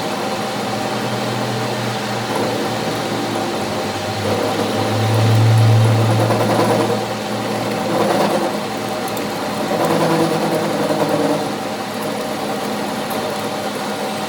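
A machine running with a steady hum, swelling louder for a couple of seconds about five seconds in and surging again around eight and ten seconds.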